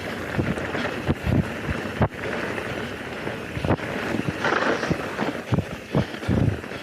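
Mountain bike rolling fast down a dirt forest trail: tyres hissing and crunching over the ground, with frequent knocks and thumps over bumps and roots, and wind on the microphone.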